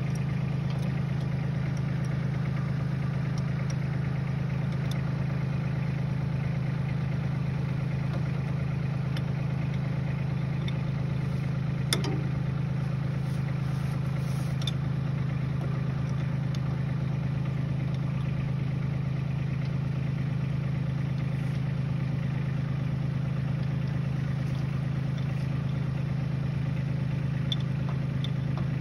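Tractor diesel engine idling steadily at an even speed, with a single sharp click about twelve seconds in.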